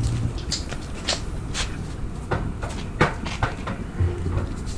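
Irregular sharp knocks and clicks, about a dozen, over a steady low hum.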